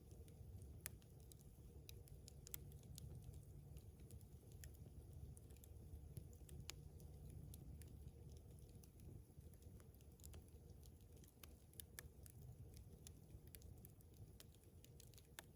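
Wood campfire crackling faintly: irregular sharp pops and ticks from burning wood over a low, steady rumble.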